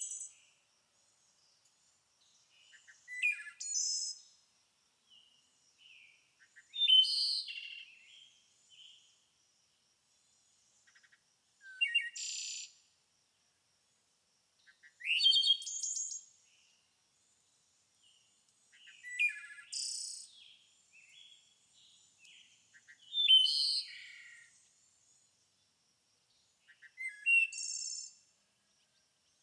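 Songbird singing short phrases of high chirps and rising whistles, one phrase every three to four seconds with near silence in between.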